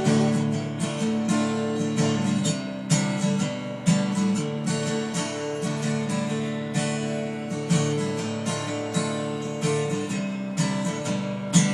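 Instrumental acoustic guitar strumming chords in a steady rhythm, with no singing.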